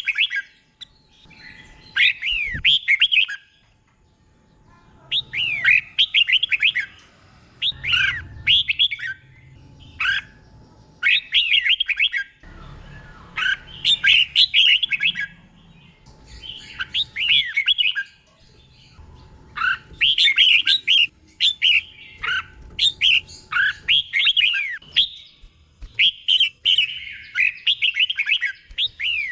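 Red-whiskered bulbul singing: short phrases of quick, slurred, whistled notes, repeated every couple of seconds with brief pauses between.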